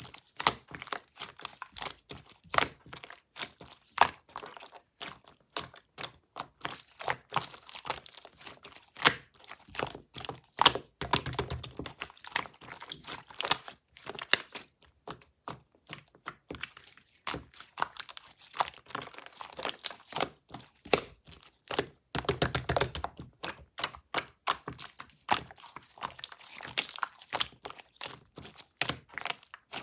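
Ocean slime being squeezed, pressed and poked by hand, giving a dense run of sharp sticky clicks and crackles. The crackling thickens into fuller, louder squishing twice, about a third of the way in and again two-thirds through.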